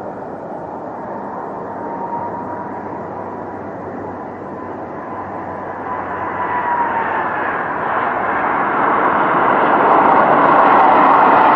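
Airliner on approach, its engine noise growing steadily louder as it comes nearer, with a high whine that dips slightly in pitch about seven seconds in.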